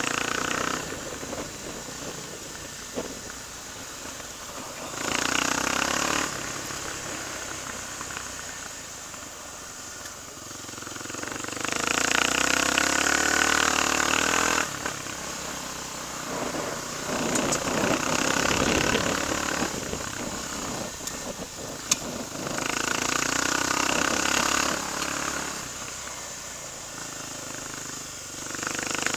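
Kawasaki KLX250's single-cylinder engine running under way, building up in several louder spells of acceleration and easing back between them.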